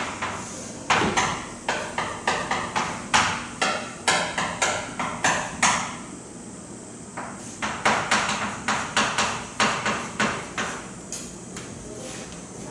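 Handwriting strokes on a board: an irregular run of quick taps and scratches, two or three a second, with a short pause about halfway.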